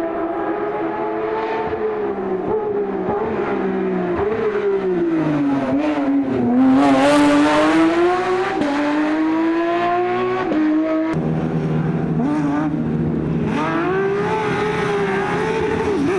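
Porsche sports-car engine revving under load, its pitch falling and then climbing, with a drop like a gear change about ten seconds in. It is loudest about seven seconds in, and the sound changes abruptly about eleven seconds in before the revs climb again.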